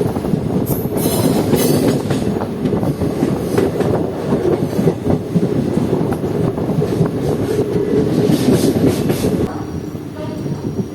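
Passenger train coach running along the track, its wheels clattering over the rails with a steady rumble and rapid knocks; it turns a little quieter near the end.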